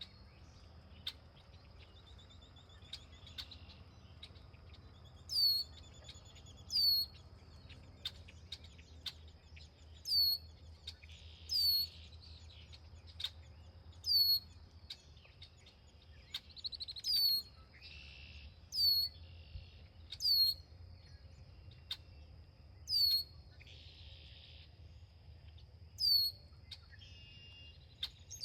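A bird calling over and over with short, high notes that sweep sharply downward, about a dozen in all, one every one and a half to three seconds. A thin, steady high tone runs underneath, with scattered sharp ticks and a few short buzzy calls between the notes.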